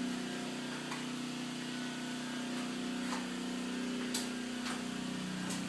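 Steady low mechanical hum, like a small motor running, with a few faint clicks.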